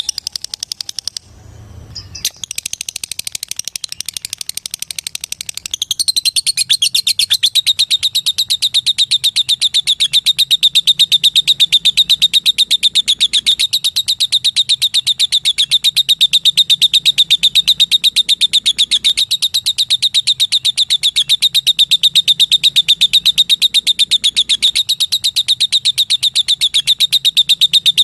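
Lovebird giving a long, unbroken string of rapid high chirps, the fast chattering song that Indonesian keepers call ngekek or ngetik. The chatter breaks off briefly about a second in, then runs on steadily.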